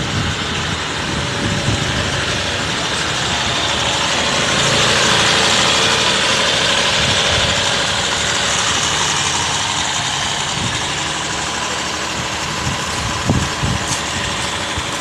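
Mahindra XUV's mHawk diesel engine idling steadily after a decarbonisation service, which is meant to leave it running smoother with less vibration.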